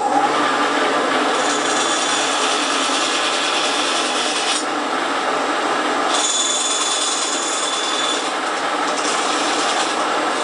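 Bandsaw running steadily and cutting a notch into a paulownia wood fire board. There are harsher, brighter stretches while the blade bites into the wood: one about a second in and another just past the middle.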